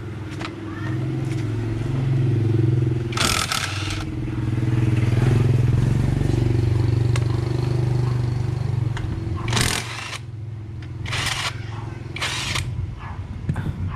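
A motorcycle engine running steadily, growing louder and easing off twice. Four short bursts of hissing noise cut across it: one a few seconds in, and three close together near the end.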